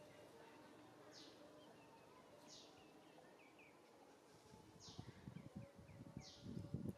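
Faint outdoor ambience: a bird repeats a short high call that sweeps downward, followed by a few quick chirps, four times. From about halfway through, leaves and branches rustle and crackle, louder toward the end.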